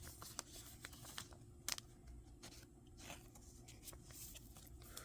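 Faint handling of Pokémon trading cards: a few short, soft scrapes and ticks as cards slide over one another, over a low room hum.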